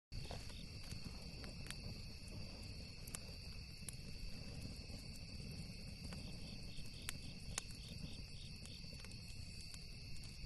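Crickets trilling steadily in two high tones, with a pulsing chirp joining in midway, over scattered sharp pops and crackles from a burning campfire. A low, steady rushing noise sits underneath.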